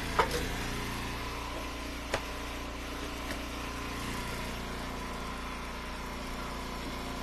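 Gas engine of a hydraulic log splitter running steadily, with two short sharp knocks about two seconds apart.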